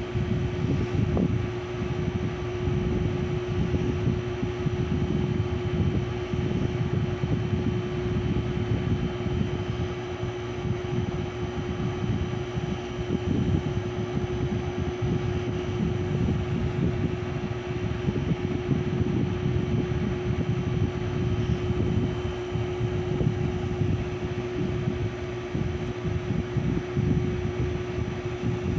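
Small Mabuhay Star ceiling fan running with a steady hum over a low rushing of moving air.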